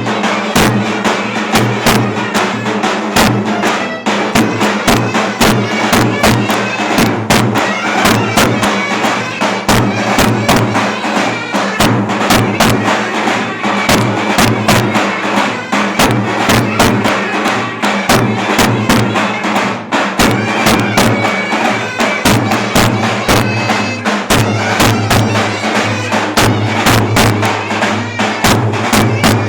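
Turkish folk dance music: a clarinet plays a reedy melody over rapid, steady strokes of a davul drum.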